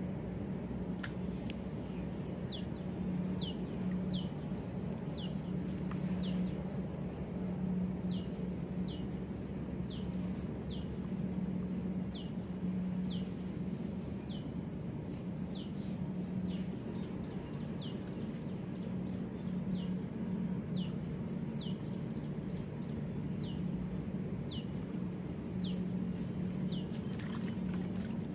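A bird gives a short, high chirp that falls in pitch, over and over, a little more than once a second. Under it runs a steady low hum.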